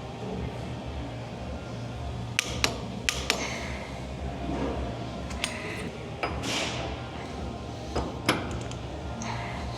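Metal hand tools clinking and knocking against metal parts, a handful of sharp clicks and clanks, over a steady low hum.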